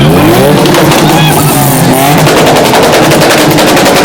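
Car engine revved hard, its pitch climbing, then held high with a rapid string of exhaust pops and crackles from about halfway through.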